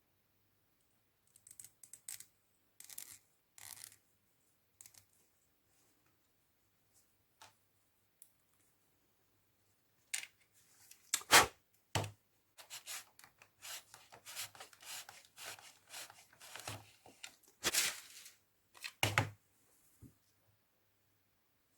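Small broken LEGO plastic parts being sanded by hand with a sanding tool, in short, irregular scraping strokes. The strokes are sparse at first and come thick and fast from about halfway in, with a few louder scrapes among them.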